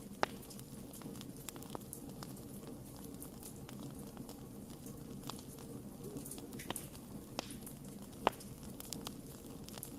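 Wood campfire burning with a steady low hiss and scattered crackles and pops; one sharp pop comes right at the start and the loudest about eight seconds in.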